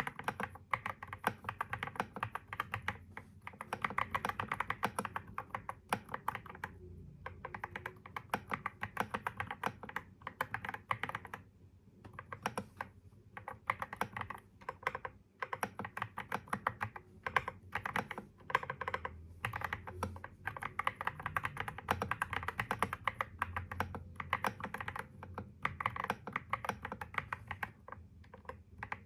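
Typing on a computer keyboard: quick runs of key clicks broken by short pauses of a second or less.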